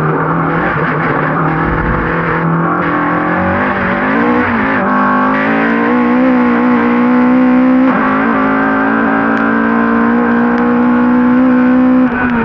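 Race car engine under hard load, its pitch climbing slowly and then stepping, with a break in pitch at about 5 and 8 seconds in and a sudden drop just before the end, as from gear changes or lifting off.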